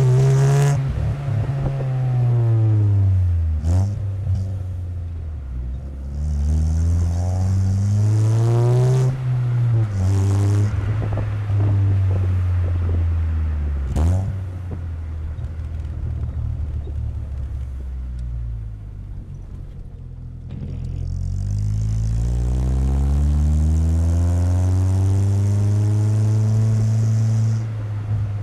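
Exhaust of a 1997 Chevrolet Corsa Wind 1.0 MPFI four-cylinder fitted with a JK muffler, heard right at the tailpipe while driving. The note falls, climbs under acceleration and drops again several times as the car pulls through the gears, then holds a steady cruising drone.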